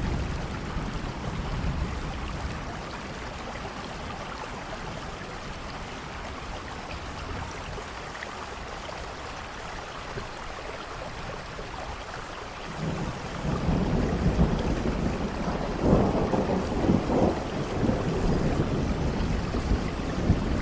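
Steady rain falling, with a long roll of thunder that builds about two-thirds of the way in and peaks a few seconds later.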